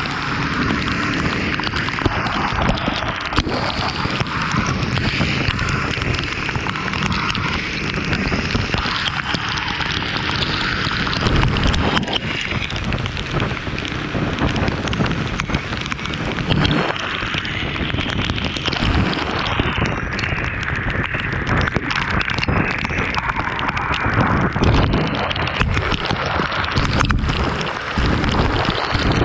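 Loud, steady wind noise buffeting the microphone while riding in the rain, mixed with rain and road noise.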